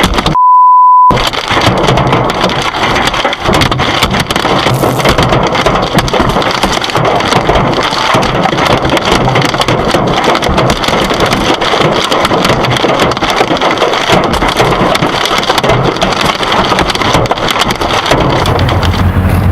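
Hailstorm: hailstones pelting down in a dense, continuous clatter of impacts. About a second in, a one-second censor bleep (a pure beep tone) cuts over it. Near the end the clatter gives way to a low steady hum.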